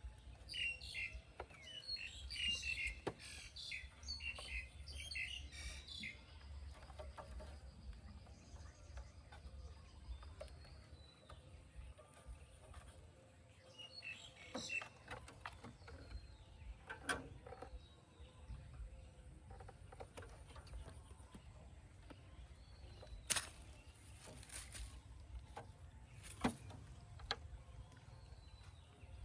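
High-pitched chirping calls, in a quick flurry over the first several seconds and again briefly around the middle. Two sharp knocks come near the end.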